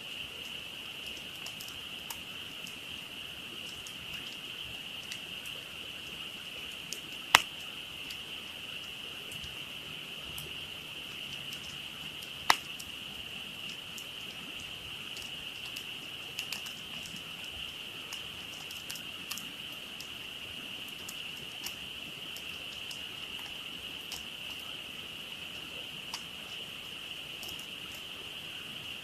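Dense frog chorus, a steady high-pitched trilling drone, over a crackling campfire with scattered small crackles and two loud sharp pops from the fire about seven and twelve and a half seconds in.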